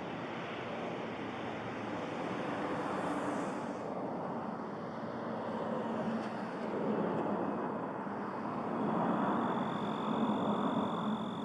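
Steady distant engine noise, swelling and easing a little. A thin, steady high whine comes in about nine seconds in.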